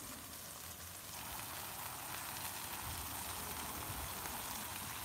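Italian sausage smash patties, onions and green bell peppers sizzling steadily on a Blackstone flat-top griddle, growing a little louder about a second in.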